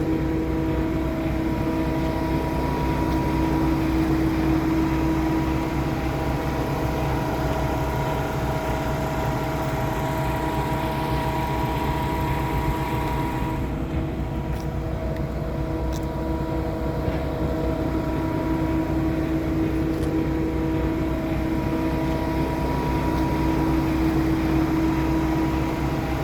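Paccar MX13 diesel engine of a Kenworth T680 truck idling steadily, a low rumble with a steady whine over it. The higher hiss drops away about halfway through, and a couple of faint clicks follow.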